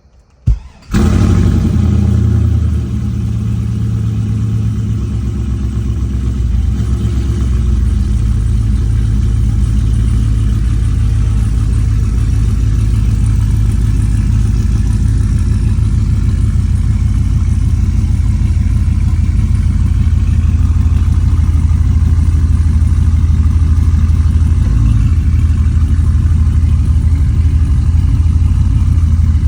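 Car engine cold-starting after sitting for a week and a half: it catches about a second in with a loud flare for a couple of seconds, then settles into a steady idle. The owner says it badly needs a tune.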